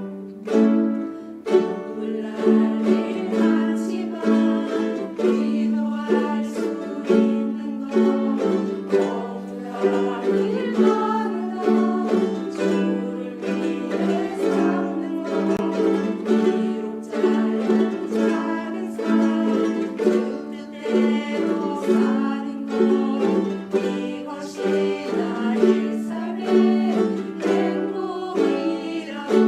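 Ukulele ensemble playing a tune, with strummed chords in a steady rhythm.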